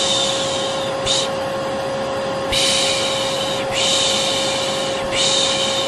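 Vacuum cleaner motor running steadily with a constant hum, used as white noise to soothe a baby. Over it a person repeatedly shushes ('pış pış'): a short 'shh' about a second in, then three drawn-out ones, each about a second long.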